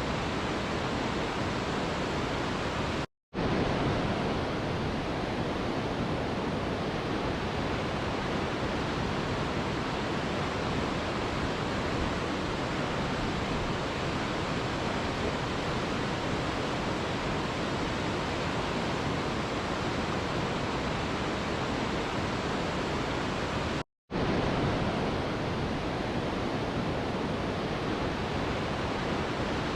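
Mountain river rushing: a steady, unbroken wash of water noise, cut by a split-second dropout to silence twice, about 3 seconds in and near 24 seconds in.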